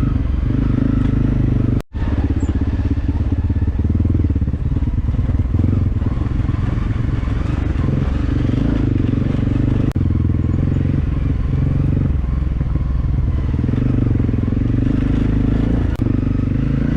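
Motorcycle engine running steadily under way, a low drone that cuts out for an instant about two seconds in.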